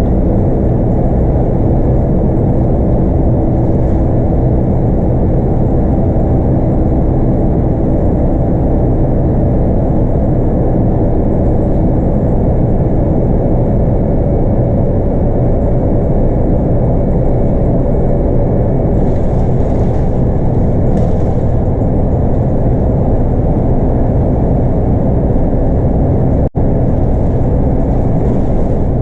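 A Scania DC9 8.9-litre five-cylinder diesel in a Scania K230UB bus, running steadily under way, heard from inside the cabin with a constant low rumble of engine and road noise. The sound cuts out for an instant about three-quarters of the way through.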